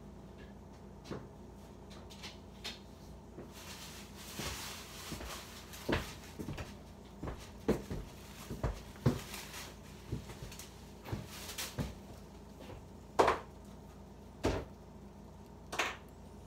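Scattered knocks, clicks and clunks of things being handled and set down in a kitchen, irregularly spaced, with the loudest knock about two-thirds of the way through.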